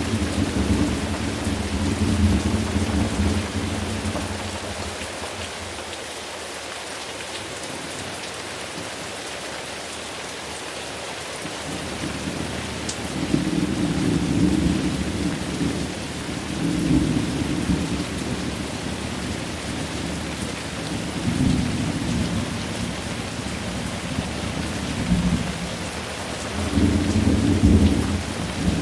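Steady rain with low rolling thunder. The thunder fades away about four seconds in, leaving rain alone for several seconds, then rumbles back in a series of peals through the second half.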